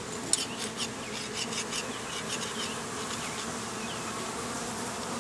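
Honeybees buzzing in a steady hum around an opened, disturbed hive, with a run of light clicks and knocks over the first three seconds or so.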